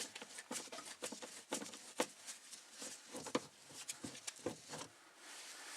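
Irregular light clicks, taps and rustling of hands and tools handling the fuel pump access cover and the trim around it.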